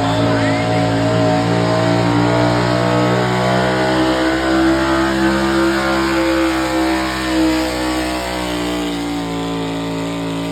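Chevrolet K30 pickup truck's engine under heavy load, held at high revs while pulling the weight sled, its note rising slightly toward the middle and easing a little near the end.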